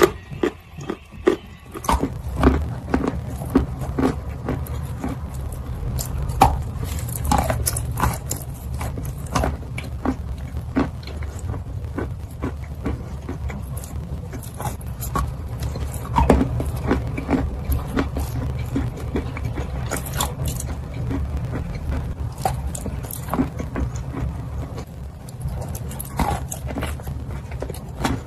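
Close-miked chewing: many short, irregular wet crunches, clicks and mouth smacks, over a steady low hum.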